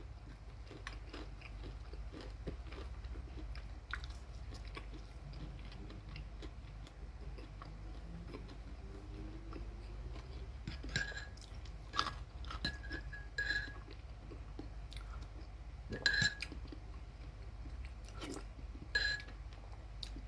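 A person chewing fried chicken close to the microphone, with many small mouth clicks. A few brief louder clicks come in the second half.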